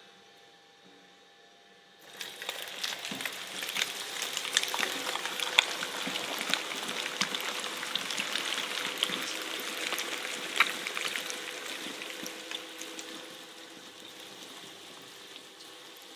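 A shredder crushing soft material, a dense crackling and popping that starts suddenly about two seconds in and tapers off toward the end.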